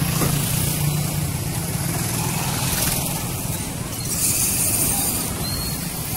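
Road traffic with vehicle engines running, a steady low hum under a noisy wash that swells slightly about four seconds in. Two faint short high chirps near the end.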